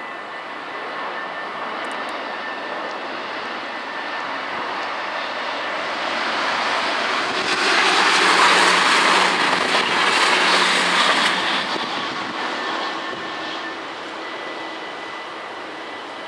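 NS SGMm Sprinter electric train passing over a level crossing: its rumble and rail noise swell to a peak about eight to eleven seconds in, then fade. The crossing's bells ring faintly and steadily near the start.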